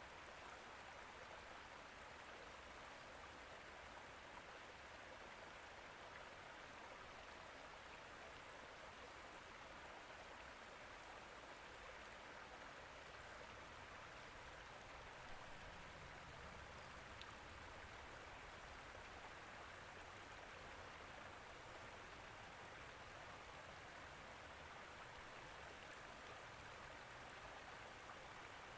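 Faint, steady rushing noise like distant running water, even throughout with no distinct events.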